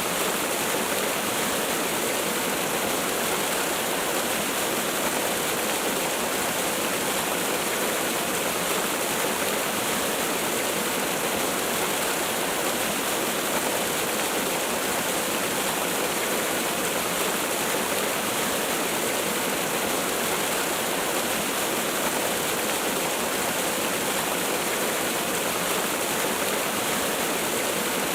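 Waterfall: a steady, even rush of falling water with no change through the stretch.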